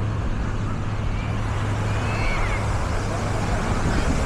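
Busy beach ambience: a steady rush of surf and open-air noise, heaviest in the low end, with faint distant voices of beachgoers. A low steady hum stops about halfway through.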